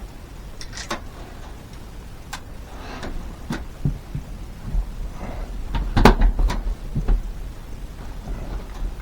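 Scattered light knocks and clicks of things being handled, busiest a little past the middle, over a low rumble.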